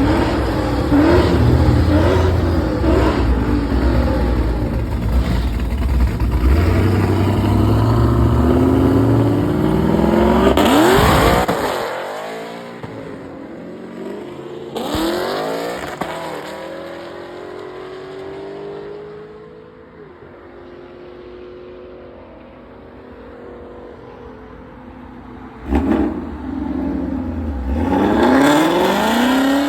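Car engines revving hard as cars accelerate away at a meet: for about eleven seconds a loud engine climbs in pitch again and again through its revs, then drops sharply in pitch and fades as it goes past. A quieter engine falls away in pitch, then a sudden loud blast near the end leads into another car revving up.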